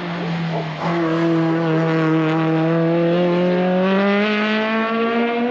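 Race car engine on track, pulling under load. About a second in, its note breaks and drops briefly like a gear change, then holds one steady note that climbs slowly in pitch.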